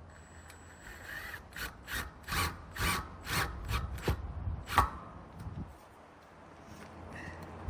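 A hand tool worked in repeated rasping back-and-forth strokes, about eight of them at roughly two a second, stopping about five seconds in.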